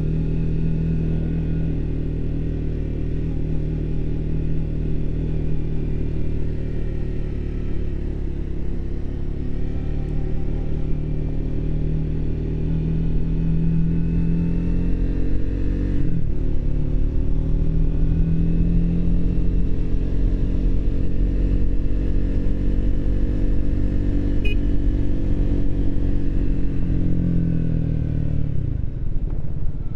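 Triumph Speed 400's single-cylinder engine running on the road, its pitch rising and falling with the throttle. About halfway through the pitch drops sharply and climbs again, as at a gear change, and near the end it falls away as the bike slows.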